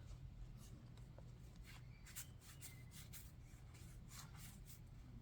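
Faint rustle and sliding of trading cards being handled and sorted, in short soft strokes over a low steady hum.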